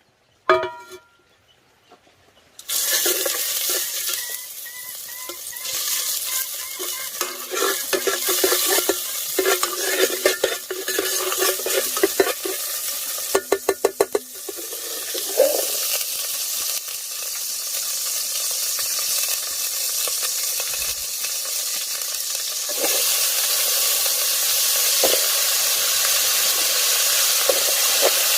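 Food sizzling in hot oil in a pan, with a utensil scraping and tapping against the pan. The sizzle starts suddenly a few seconds in and grows louder near the end.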